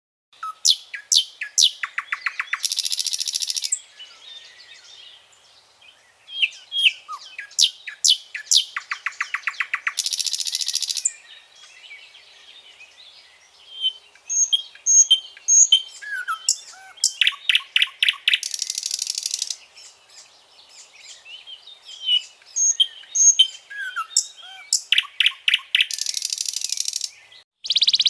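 A songbird singing the same song four times. Each song is a few sharp, falling notes, then a fast rattling trill, ending in a high buzz, with softer chirps in the pauses between songs.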